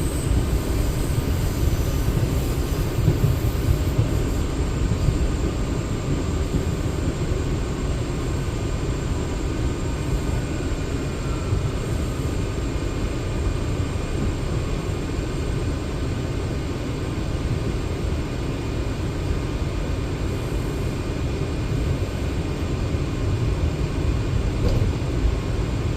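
Interior of an R179 subway car running between stations: a steady low rumble of the wheels on the track with a faint steady whine above it.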